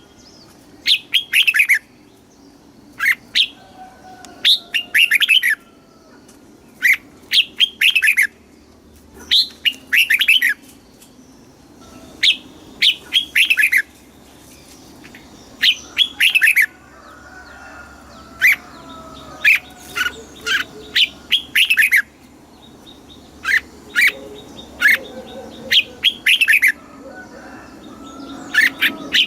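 Red-whiskered bulbul singing: short, loud phrases of quick falling whistled notes, repeated every one to three seconds.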